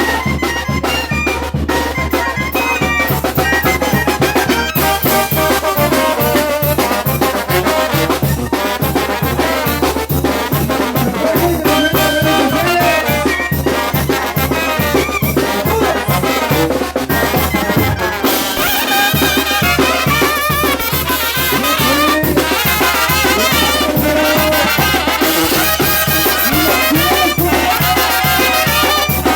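Mexican brass band (banda) playing upbeat dance music: trumpets and trombones over a steady drum beat. The bass and drums drop out for a moment about two-thirds of the way through, then the band carries on.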